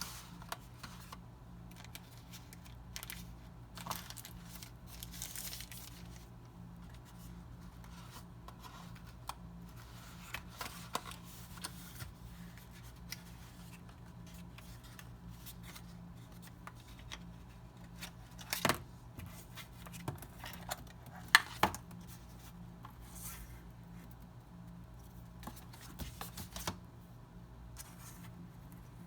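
Packaging being handled and opened by hand: scattered light clicks, rustling and tearing. There are sharper clicks about 19 and 21–22 seconds in, over a steady low hum.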